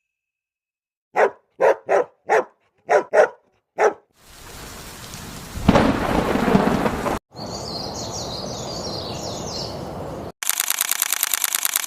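Seven short yelps in a row, then a thunderclap rumbling into steady rain, with high chirps over the rain. Near the end a fast, even clicking takes over.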